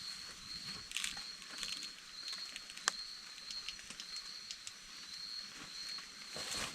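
Forest ambience: a steady, high, slightly pulsing insect drone with scattered small clicks and crackles.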